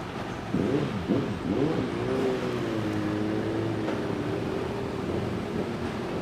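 Motorcycle engine pulling away, its pitch rising and dropping with a few quick gear changes, then running steadily.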